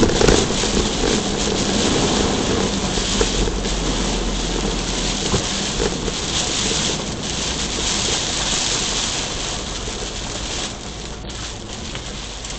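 Heavy typhoon rain pouring down: a loud, dense, steady hiss of rain that eases a little over the seconds.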